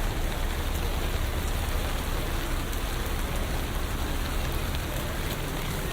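Steady rain falling on city streets, an even hiss with scattered drop ticks over a low, constant rumble of traffic.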